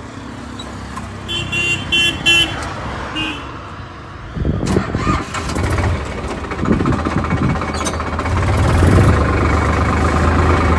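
A few short horn beeps, then a vehicle engine starts about four and a half seconds in and keeps running with a steady low hum.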